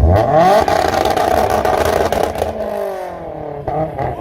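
Car engine revving hard as it accelerates. Its pitch climbs fast in the first half second, holds high, then drops back about two and a half seconds in.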